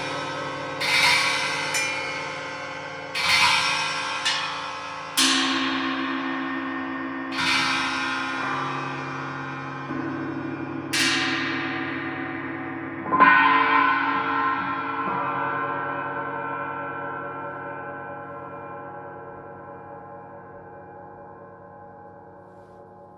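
Several gongs struck softly one after another, about a dozen strokes in the first fifteen seconds, each leaving long overlapping ringing tones at different pitches. After the last strokes the shimmering ring slowly dies away.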